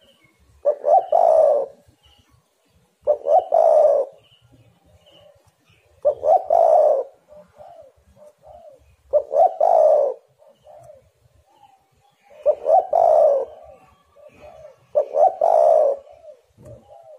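Spotted dove (tekukur) cooing: six loud coo phrases about every three seconds, each of two or three notes run together, with fainter cooing in the gaps between the later phrases.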